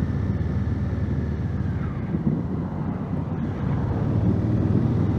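2019 Honda Africa Twin's 1000cc parallel-twin engine running steadily during slow city riding, with some wind noise on the microphone.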